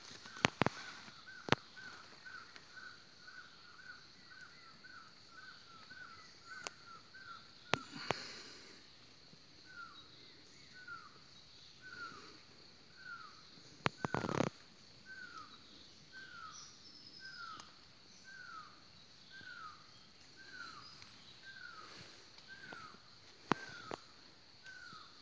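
A bird repeating a short falling call: quickly at first, about two a second, then after a short gap about eight seconds in, more slowly at about one a second. A steady high whine runs underneath, and a few sharp knocks stand out, the loudest about fourteen seconds in.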